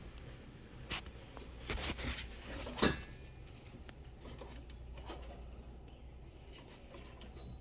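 A few short knocks and rustles, the loudest just before the middle, over a low steady hum.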